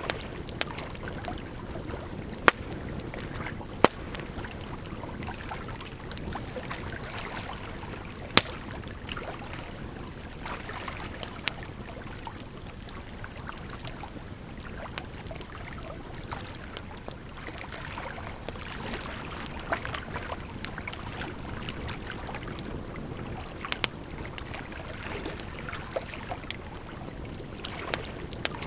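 Wood fire crackling, with sharp pops from the burning logs every few seconds over a steady rush of flowing water.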